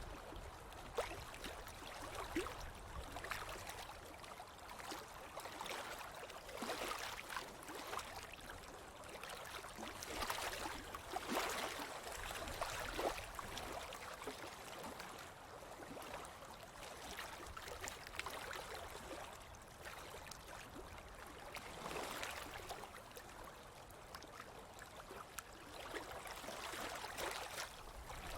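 Ocean waves washing onto a beach, the surf swelling and easing every few seconds.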